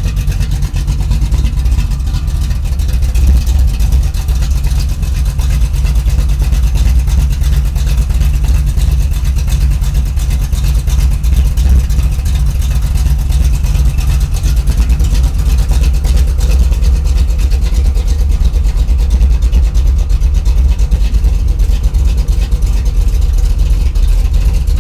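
A 1983 Chevy C10's new 383 stroker small-block V8 idling steadily through Flowmaster mufflers, a loud, low, even rumble.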